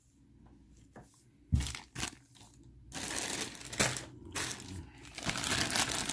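Two light knocks, then a plastic bag crinkling as it is handled and opened, starting about three seconds in and carrying on.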